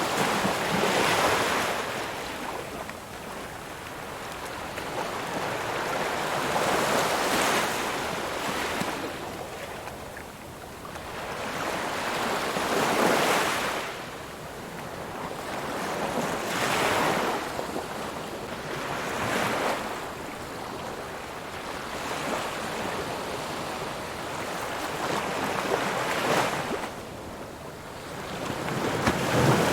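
Ocean surf: waves breaking and washing up on a beach one after another, each surge rising and fading every few seconds. The biggest wave comes right at the end.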